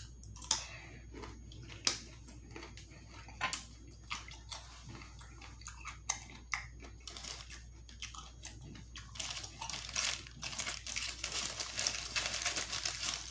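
Close-miked eating: scattered sharp crunches and mouth clicks, then from about nine seconds in a denser run of crackling and rustling.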